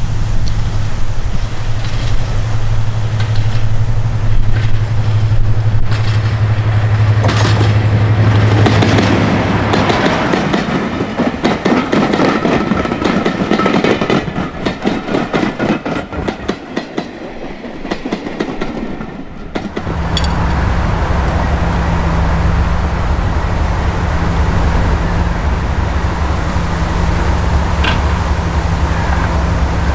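Heavy diesel locomotive engines: a steady low engine note, then a stretch of wheel clatter over the rails as a train passes, then an abrupt change to a different steady engine note about two-thirds through.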